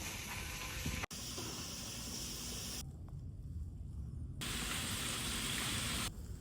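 Steady rushing noise with no clear source, changing abruptly three or four times at cuts between shots.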